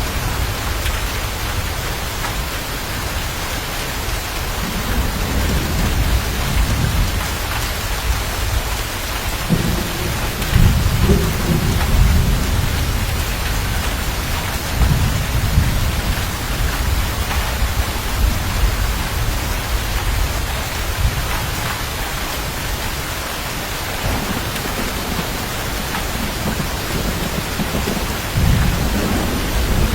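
Steady heavy rain with low rolls of thunder rumbling several times, the loudest about ten seconds in and another near the end.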